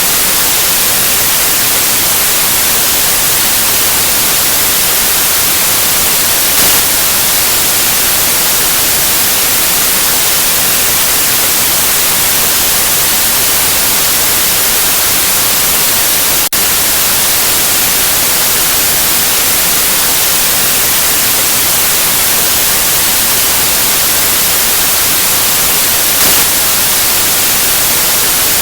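Steady white noise: an even, unchanging hiss, strongest in the high end, with a momentary dropout about halfway through.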